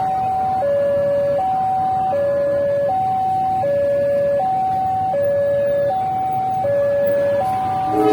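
Railway level-crossing warning alarm, an electronic two-tone signal alternating high and low about every three-quarters of a second, warning that a train is approaching.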